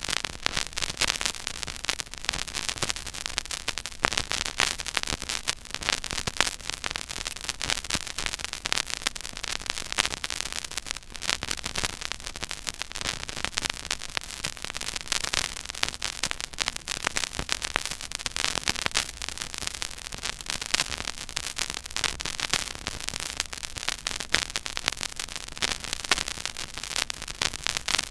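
Surface noise of a silent, unmodulated groove on a 12-inch vinyl record playing at 33⅓ rpm: steady dense crackle and pops over a faint hiss and low hum.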